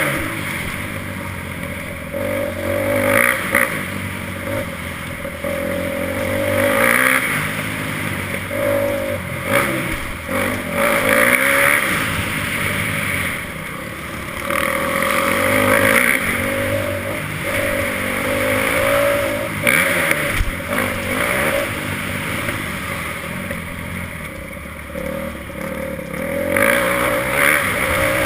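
Motocross bike engine revving up and falling back again and again, pitch climbing and dropping every few seconds.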